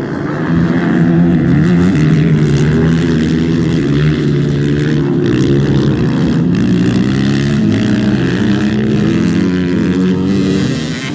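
Motocross motorcycle engines revving, their pitch rising and falling continuously.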